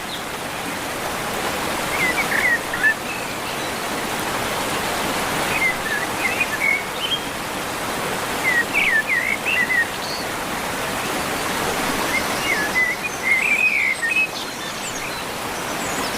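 Steady rush of running water from a stream, with small birds chirping in short clusters every few seconds.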